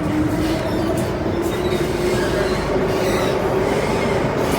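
Metro-Cammell M-Train electric multiple unit running under power, with its traction motors whining in a steady tone that climbs slowly in pitch as the train gathers speed. Heavy wheel-and-rail rumble lies underneath.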